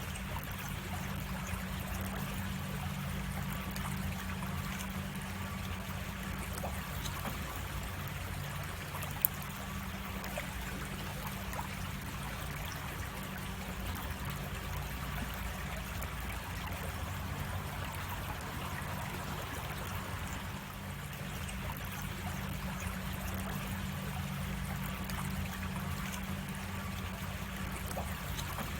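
Creek water running steadily over a small cascade, a continuous trickling rush, with a steady low hum underneath and a single sharp click about nine seconds in.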